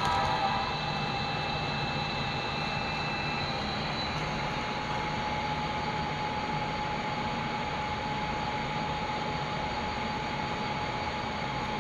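Model passenger train running on the layout: a steady rushing hum with a faint steady whine, and a higher whine that fades out after about three seconds.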